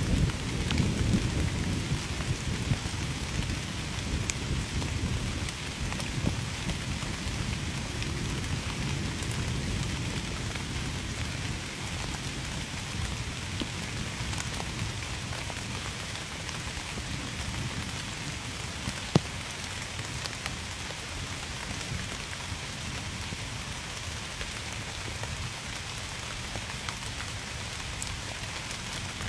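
Steady heavy rain with scattered drops ticking close by. A low rumble of thunder dies away over roughly the first ten seconds, and one sharp tick stands out about two-thirds of the way through.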